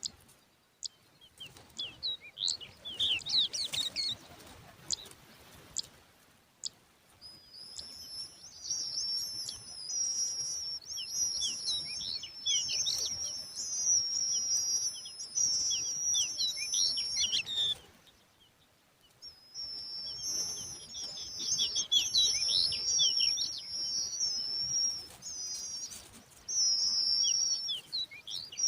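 Lark chicks calling: scattered sharp high chirps at first, then a continuous high, wavering twitter full of quick falling notes. It breaks off briefly about two-thirds of the way through, then resumes.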